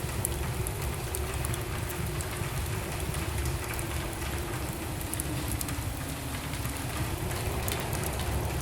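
Wood fire burning in a fireplace: a steady low rumble and hiss of the flames with scattered small crackles and pops.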